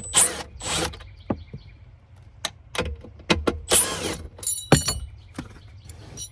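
Hand-tool work on a truck's dashboard: a string of sharp clicks and knocks with short scraping rustles, and a metallic clink that rings briefly just before five seconds in.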